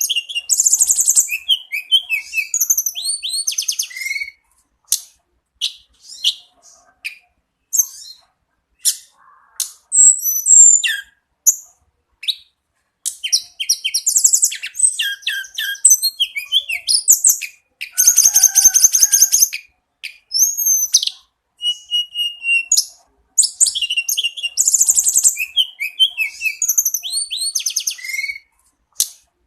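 Tledekan gunung songbird singing steadily, a run of high, varied song phrases of quick chirps, slurred notes and rapid trills with short pauses between them.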